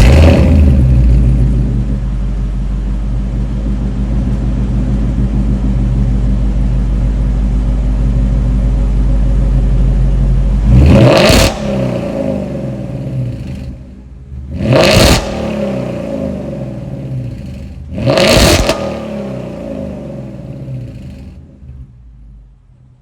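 Ford Mustang GT's 5.0 V8 through a Ford Racing cat-back exhaust, running steadily, then blipped hard three times, about 11, 15 and 18 seconds in, each time falling back, fading near the end. The engine is warmed up and revved to about 4,000 rpm.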